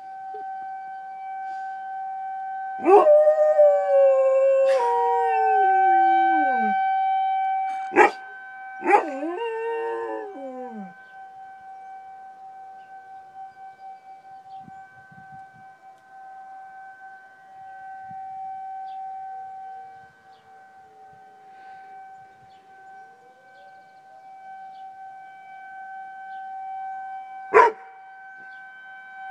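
Tornado siren sounding a steady tone throughout while a dog howls along with it. The dog gives two long howls that slide down in pitch, the first about three seconds in and the second around nine seconds, then goes quieter. Two sharp clicks sound, one around eight seconds and one near the end.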